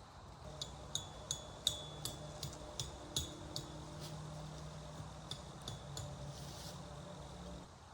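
Light metallic clinks, about a dozen at irregular intervals, each ringing briefly at the same high pitch, like a metal utensil knocking against camp cookware, over a low steady hum.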